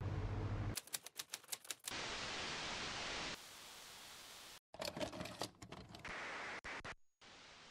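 Edited sound-effect sequence: a low hum, then a quick run of about eight sharp clicks, then stretches of hiss broken by scattered clicks, switching abruptly between segments.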